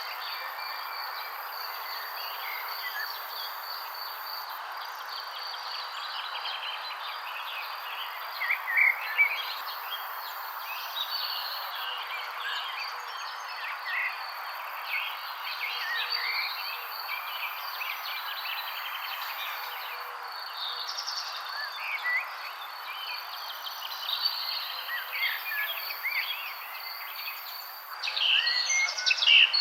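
Many small birds chirping in short, scattered calls over a steady hiss and a continuous high insect trill. The chirping gets busier and louder near the end.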